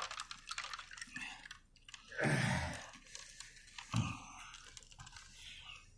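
A person chewing and crunching on a chicken wing, with soft mouth clicks and a louder breathy sound about two seconds in.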